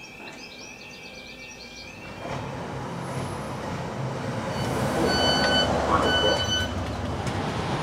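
Northern Class 156 diesel multiple unit idling at a station platform, its low engine rumble starting about two seconds in. Near the middle, its door warning beeps sound in two spells as the doors stand open for boarding.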